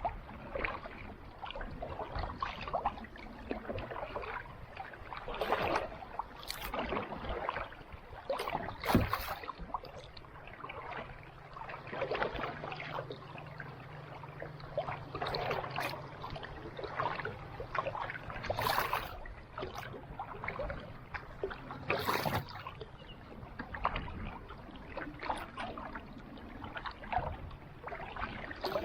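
Kayak paddle strokes in calm sea water: soft, irregular swishes and splashes every second or two, with a few sharper clicks. A faint low hum sits under the water sounds for several seconds in the middle.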